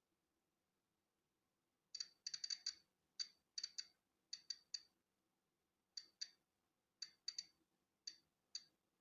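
Polon EKO-C digital Geiger counter clicking at random intervals, each short, high-pitched click marking one detected particle of natural background radiation. Silent for about two seconds, then some eighteen clicks, partly bunched in quick runs and partly spaced out.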